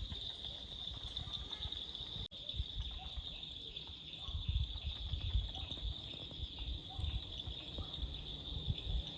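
Steady high-pitched chorus of insects, with an uneven low rumble on the microphone underneath; the sound cuts out for an instant a little after two seconds in.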